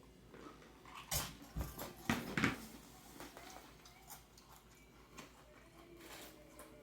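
Close-up eating sounds: a few sharp crunchy bites and mouth noises between about one and two and a half seconds in, then quieter chewing.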